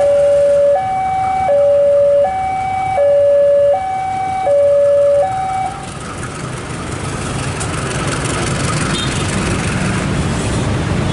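Electronic two-tone hi-lo warning signal, alternating between a higher and a lower tone about every three-quarters of a second, stops a little under six seconds in. A steady noise then builds up and grows louder.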